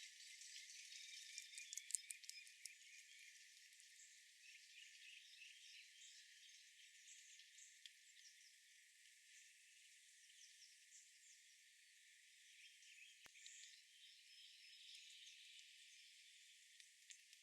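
Faint outdoor ambience of small wild birds chirping, in scattered short high chirps, with a quick run of ticks about two seconds in and a single sharp click near the end. All the low sound is filtered out.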